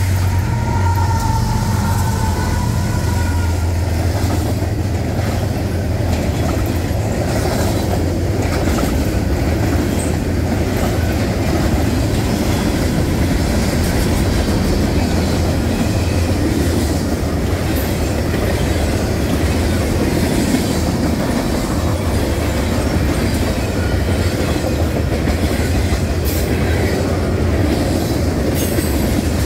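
Freight train passing at speed: the locomotive's diesel drone is strong in the first few seconds and then eases as a long string of covered hopper cars rolls by, with a steady wheel rumble and the clickety-clack of wheels over rail joints.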